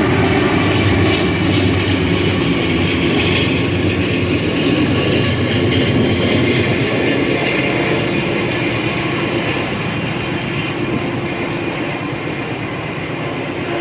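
Freight train cars rolling past: a steady rumble and clatter of steel wheels on rail, easing off slightly toward the end.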